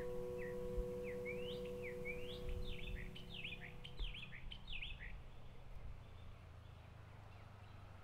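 Birds chirping in a quick run of short rising and falling calls, thinning out after about five seconds. Under them the last chord of the background music holds and stops about four seconds in.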